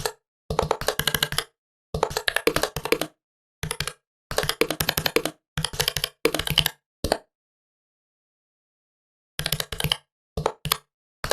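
Fast typing on a laptop keyboard, keystrokes coming in quick bursts with short breaks, then stopping for about two seconds past the middle before resuming.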